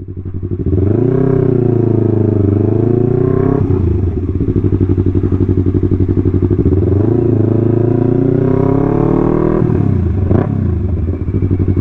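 Yamaha R3's parallel-twin engine running loud at low speed, its pitch rising and falling several times with the throttle.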